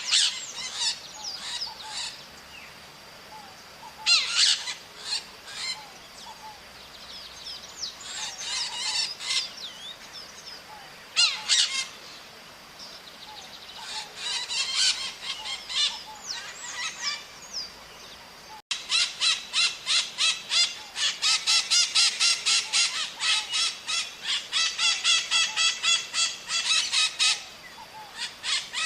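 Maritacas (small parrots) calling in clusters of rapid repeated high calls every few seconds; about two-thirds through, the calling becomes a dense, almost continuous run of quick calls, several a second, that stops shortly before the end.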